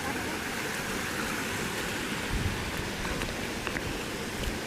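Steady rush of falling water from a waterfall, an even hiss with a few low bumps.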